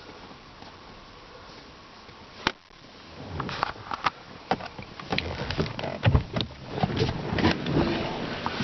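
Handling noises inside a car's cabin: a single sharp click about two and a half seconds in, then a run of irregular clicks, knocks and light thuds with rustling as someone moves about the interior and handles its fittings.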